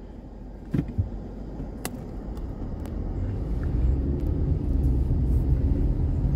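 A car driving: low engine and road rumble that grows louder from about three seconds in, after a few sharp clicks and knocks in the first two seconds.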